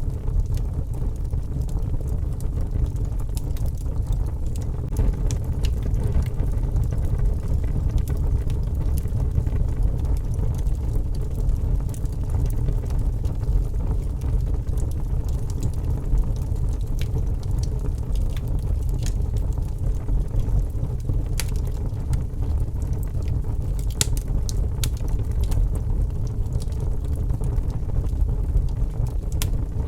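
Wood fire crackling in a fireplace: scattered sharp snaps and pops over a steady low rumble, with a quick run of pops toward the end.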